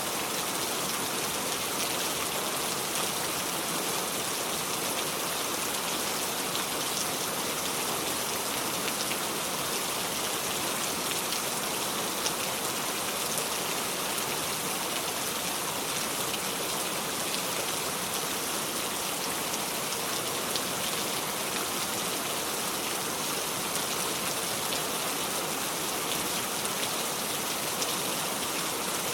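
Steady heavy rain falling on a surface, a constant hiss with fine scattered drop ticks and no thunder.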